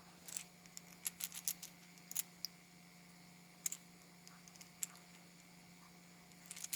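Faint, scattered light clicks and taps of a small machine screw against the metal faucet handle as the two are fitted together by hand, over a faint steady hum.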